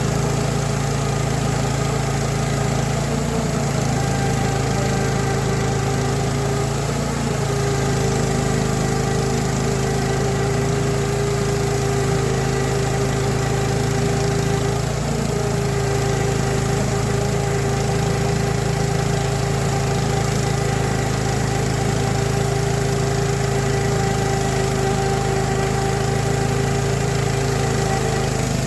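Saw mill engine running steadily at an even speed, with no change in load.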